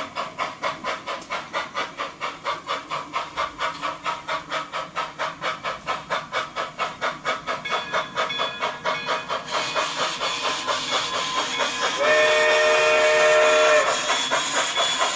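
A sound-equipped model steam locomotive, a consolidation, chuffing steadily at about five beats a second. Hissing steam grows louder from about ten seconds in, and a little after twelve seconds the locomotive sounds one long whistle of nearly two seconds, the loudest part.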